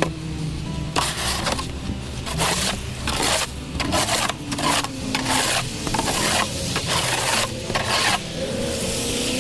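Repeated rasping, scraping crunches on snowy, slushy ground, about one to two strokes a second.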